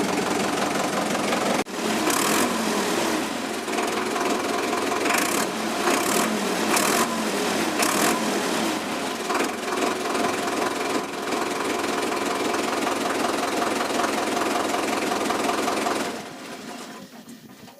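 Sonalika WT 60 tractor's diesel engine running steadily with a rhythmic clatter, its exhaust silencer freshly resealed against smoke leaks. It fades away near the end.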